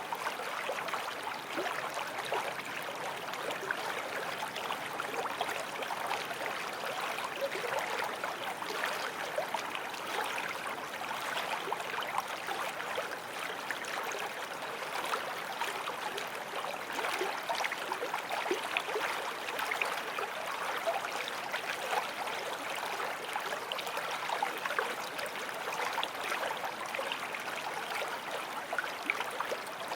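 Forest stream flowing and babbling over stones, a steady rush of water with small splashes and gurgles.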